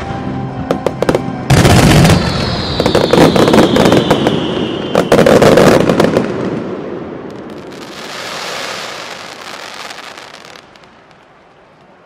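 Aerial fireworks: a loud, dense barrage of bangs and crackling breaks out about a second and a half in, with a falling whistle over it, then dies away into a fading fizz and crackle near the end. Music plays briefly at the start.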